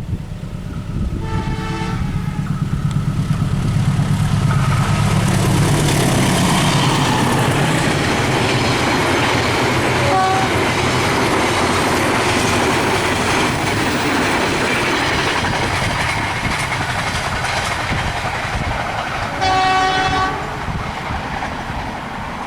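Diesel-hauled Indonesian passenger train passing at speed, sounding its horn briefly about a second in, with a short toot near the middle and another horn blast near the end. A heavy engine rumble comes as the locomotive goes by, followed by the steady run of the carriages' wheels on the rails.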